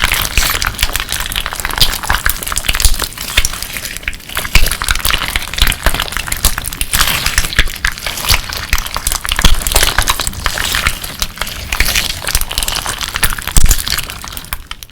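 Clear slime with colourful crystal pieces mixed in, squeezed and worked by hand, giving a dense run of crunchy crackles and clicks that fades out right at the end.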